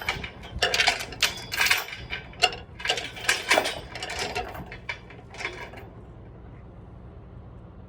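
Steel load-securing chain clanking and rattling as it is handled and pulled, a quick run of metallic clinks that stops about five and a half seconds in.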